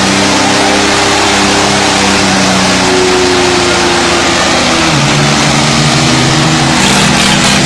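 Tractor diesel engine running hard under load. Its pitch holds, then drops about five seconds in as the revs change.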